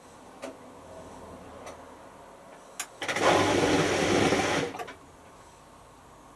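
Hotpoint Futura HF8B593 washing machine: a few light clicks, then a loud, even rushing noise for nearly two seconds that stops with a click.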